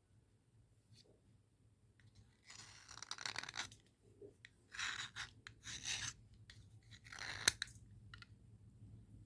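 Dry cubical slate pencils being rubbed and scraped in short gritty bursts, with one sharp click about seven and a half seconds in.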